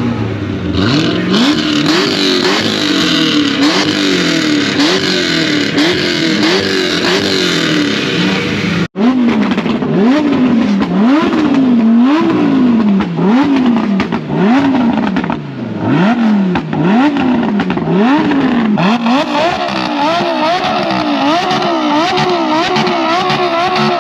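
A car engine revved hard over and over, its pitch climbing and falling back about once a second, loud. The sound cuts out briefly about nine seconds in, and a second rising-and-falling engine note joins near the end.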